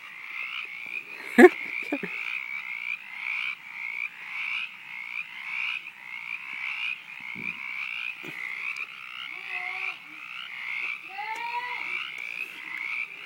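Frog croaking loud, a steady run of short calls repeating about twice a second. There is one brief louder sound about a second and a half in.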